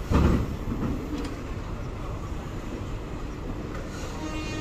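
Passenger train coaches rolling past along the platform, a steady low rumble of wheels on the track. A loud low thump comes right at the start, and a brief pitched tone sounds near the end.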